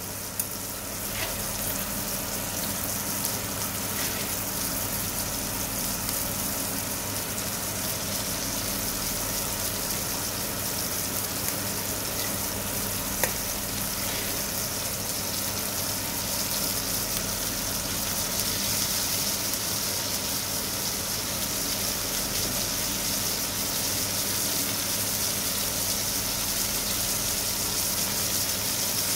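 Beef patties sizzling in oil in a frying pan: a steady frying hiss that grows a little louder about halfway through. A low steady hum runs underneath, with a light click near the middle.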